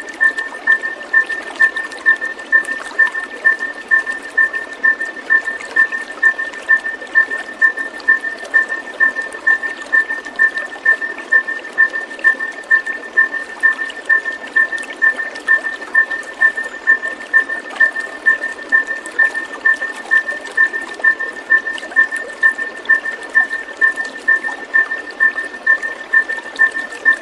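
Running water with a steady trickling hiss. Over it, a high chirp repeats evenly about twice a second.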